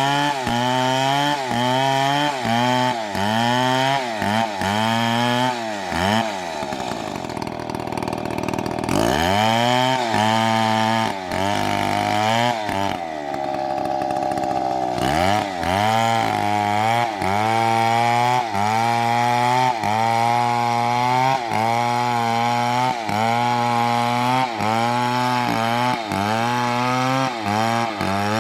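Chainsaw engine running, its pitch dipping and recovering about every two-thirds of a second. About a fifth of the way in it drops low and climbs back high, and around the middle it holds high and steady for a couple of seconds before the dips return.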